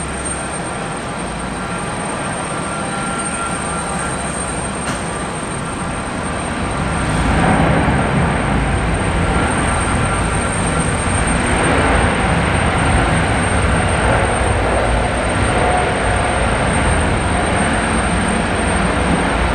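Jet airliner engine noise, a steady rush that swells about seven seconds in and stays loud.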